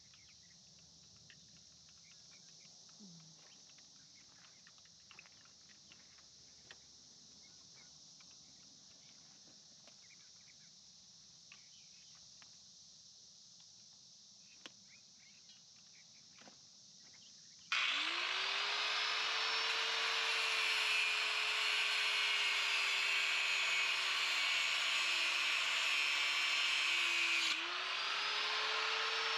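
Quiet handling clicks and ticks, then about two-thirds of the way in an electric angle grinder starts up and cuts steel with a high metallic scream. Its motor pitch sags as the disc bites, drops off briefly near the end, and spins back up.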